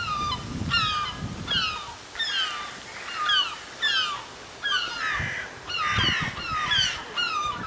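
A bird calling over and over: short, squeaky notes that slide downward, about two a second.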